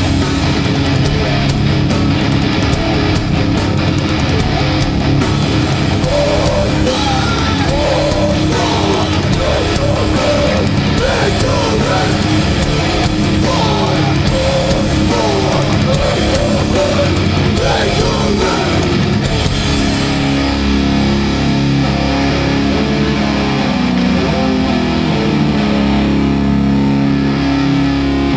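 Live hardcore punk band playing loud, with distorted electric guitars and drums. About two-thirds of the way through, the music changes to held, ringing guitar chords.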